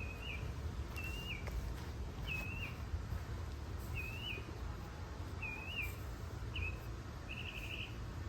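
A bird chirping in short, wavy whistled notes about once a second, ending with a couple of quick trilled notes, over a steady low background rumble.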